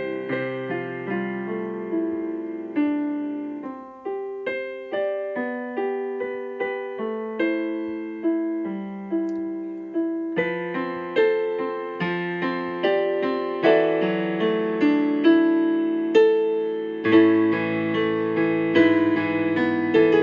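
Solo piano playing a slow, gentle prelude in chords, with notes struck about twice a second; the playing grows fuller and louder about halfway through and again near the end.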